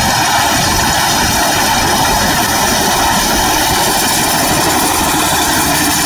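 Mini wheat combine harvester running steadily, a loud, even mechanical noise that holds constant throughout.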